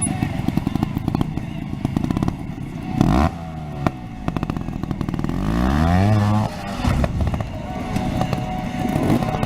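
300cc two-stroke trials motorcycle engine revving under heavy throttle with the clutch slipped, as for a splatter climb up a ramp. There is a short burst of revs about three seconds in, then a long rising rev that is the loudest part and cuts off abruptly about six and a half seconds in.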